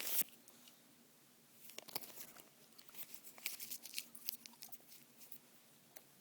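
A gum wrapper crinkles briefly at the start, then a piece of chewing gum is chewed close to the microphone: irregular small clicks and smacks of the mouth.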